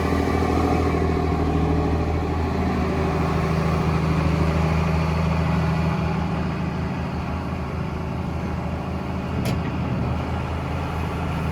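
Diesel engine of a Cat 336EL hydraulic excavator running steadily, with a brief faint click near the end.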